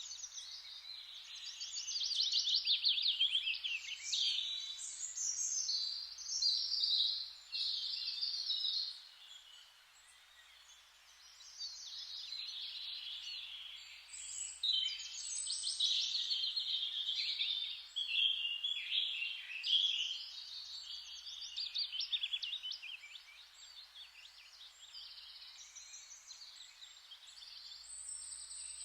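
A chorus of songbirds singing and chirping in quick, overlapping phrases over a faint steady hiss of forest ambience, thinning out for a few seconds about ten seconds in.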